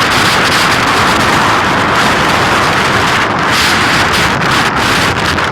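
Strong wind blowing steadily, with heavy wind noise on the microphone.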